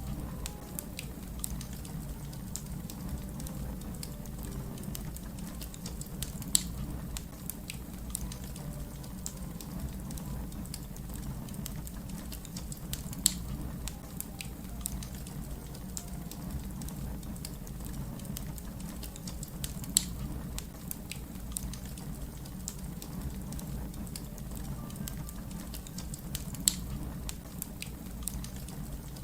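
Wood fire crackling steadily over a low rumble, with many small snaps and a louder pop about every seven seconds.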